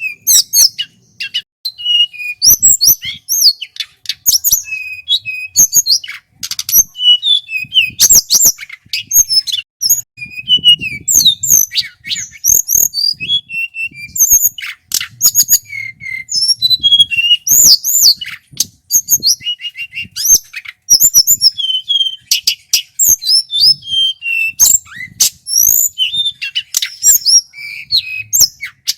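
Male tledekan gunung, a small Javanese flycatcher, singing a long, loud run of quick whistled notes, slurred glides and trills that change from phrase to phrase without pause.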